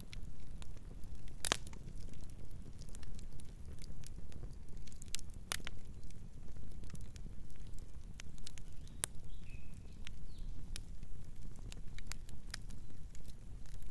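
Wood fire crackling: irregular sharp pops and snaps, some much louder than others, over a steady low rumble of the burning flames.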